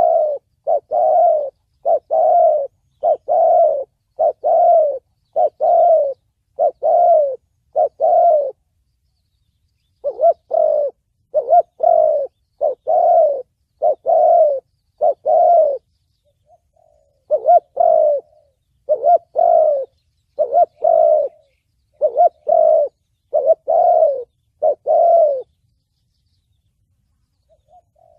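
Spotted dove cooing in the 'thổ bầu' voice, repeated short coos about one a second in three runs, with brief pauses between them. This is a call of the kind used to lure and provoke wild doves for trapping.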